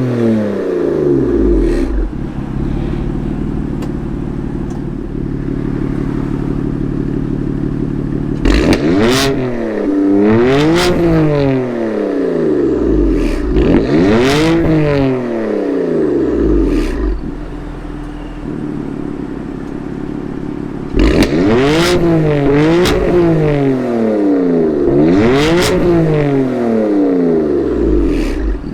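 BMW F80 M3's S55 twin-turbo inline-six, straight-piped through an M Performance exhaust with the secondary catalytic converter deleted, idling and being blipped: two sets of about four quick revs, each rising and falling back to idle, with sharp cracks from the exhaust.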